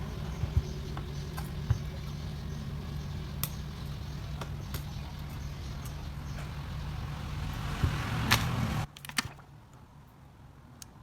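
A small electric tool running with a steady hum and light clicks and taps, cutting off suddenly about nine seconds in.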